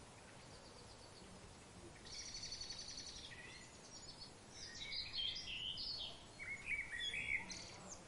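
Birds singing over a steady background hiss: a fast trill a couple of seconds in, then a run of varied chirps and short phrases near the end.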